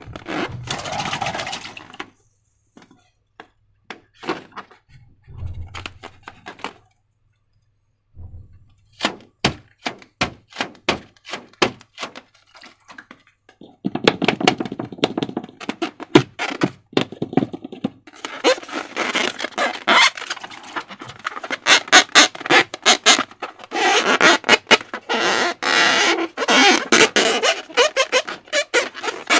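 Slime being handled, with sticky clicks and wet squelching. The clicks are sparse at first, then grow into dense, near-continuous crackling squishes about halfway through.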